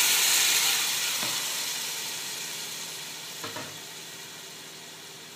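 Soaked wheat grains sizzling as they go into hot oil and fried tomato masala in a pot. The sizzle is loudest at first and dies away steadily over a few seconds, with two soft knocks of a wooden spatula stirring.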